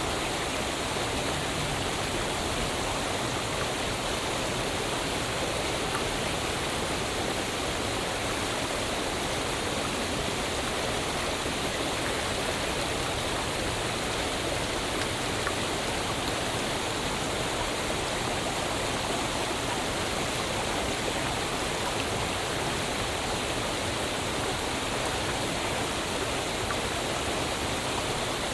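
Waterfall: falling water splashing in a steady, even rush that does not change.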